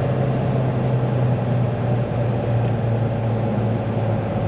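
Semi-truck's diesel engine running, heard from inside the cab: a steady low drone.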